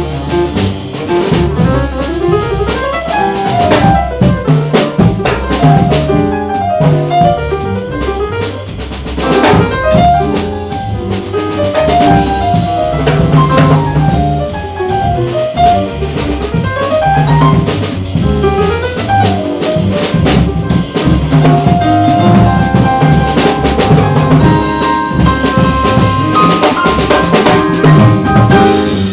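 Jazz piano trio playing: piano runs rising and falling over a bass line, with a busy drum kit and cymbals driving underneath.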